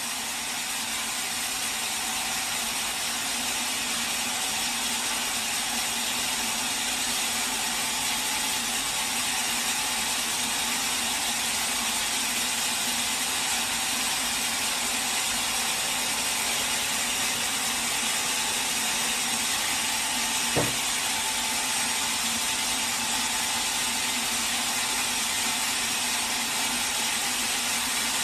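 Bandsaw sawmill running steadily, with one sharp knock about two-thirds of the way through.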